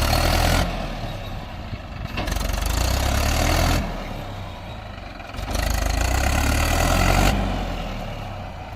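Tractor diesel engine revving in repeated surges: loud for a second or two, then easing back to a lower run, about three times.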